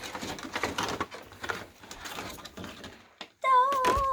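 Packaging of toy trucks being handled, with irregular rustles and light knocks, then about three and a half seconds in a person starts humming one steady, slightly wavering note.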